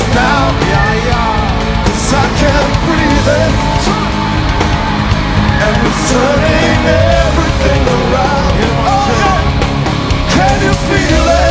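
A live rock band playing loudly and steadily, with drums, bass, guitars and keyboards, and a melody line bending in pitch over the top.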